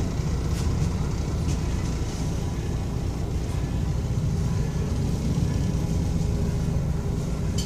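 Steady low rumble of an O-Train light-rail car, heard from inside the passenger cabin.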